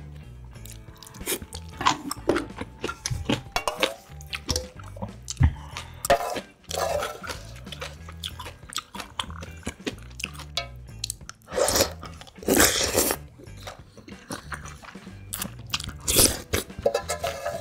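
Close-miked eating sounds: crunching and chewing of kimchi and spicy ramyun with rice cakes and dumplings, with clicks of chopsticks and a spoon against the metal pot. Two louder, longer stretches of mouth noise come about twelve and sixteen seconds in.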